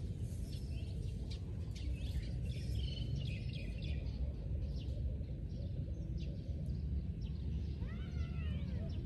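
Small birds chirping repeatedly over a steady low rumble of wind on the microphone. A longer call that bends in pitch rises about a second before the end.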